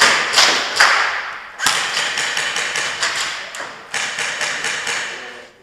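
Airsoft guns firing during indoor close-quarters play: a string of sharp, irregular cracks and BB hits, each trailing a short echo.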